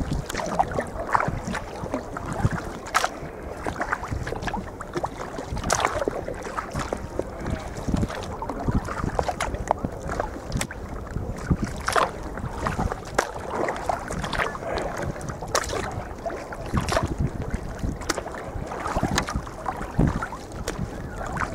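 Sea kayak paddling on open water: irregular splashes and knocks, one or two a second, over a steady rumble of wind on the microphone.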